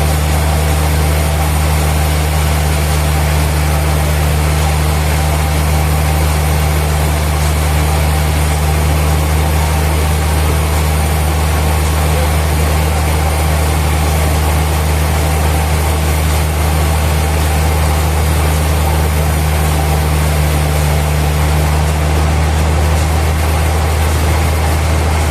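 Heavy sawmill machinery running steadily: a constant, unchanging low engine hum.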